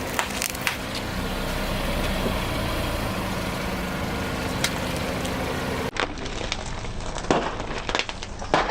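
Car engine running steadily with a few sharp cracks over it. About six seconds in, the sound cuts to a stretch of cracks and crunches as a tyre rolls over and crushes objects.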